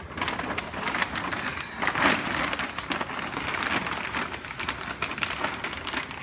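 Plastic shrink-wrap film crinkling and rustling as it is wrapped and tucked by hand, with many short crackles and a few louder swells.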